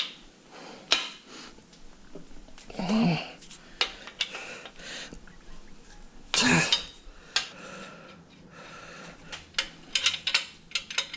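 Metal tools and engine parts clinking and clicking during work on a Toyota 22R's crankshaft main bearing caps, with a quick run of clicks near the end.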